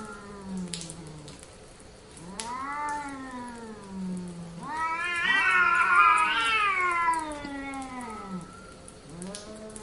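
A cat meowing in long, drawn-out yowls that rise and fall in pitch. The longest and loudest comes about five seconds in and lasts around three seconds.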